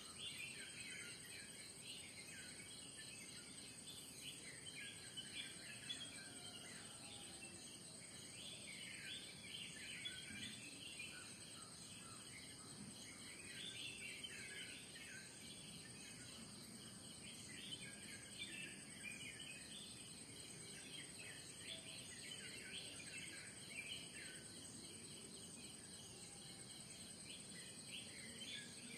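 Faint morning outdoor ambience: many small birds chirping and twittering in overlapping clusters over a steady, high-pitched insect trill.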